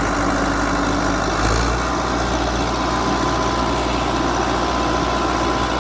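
Bulldozer's diesel engine running steadily, with a constant rushing noise over it, and its low rumble strengthening slightly about one and a half seconds in.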